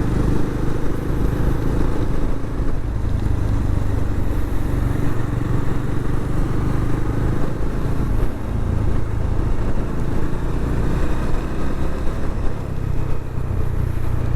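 Motorcycle engine running steadily at cruising speed, heard from the moving bike, under a constant rushing noise.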